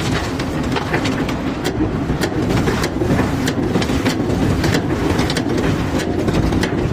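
Cobblestones clattering and knocking as a barge's stone cargo is unloaded, many sharp knocks over the steady running of machinery.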